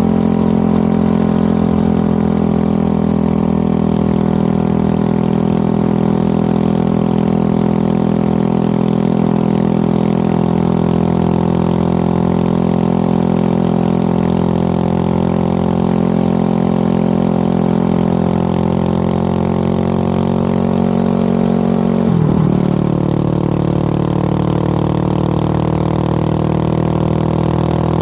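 Motorcycle engine running at a steady cruising speed with wind and road noise, its note sagging slightly at first, with a short break in the note about 22 seconds in before it carries on.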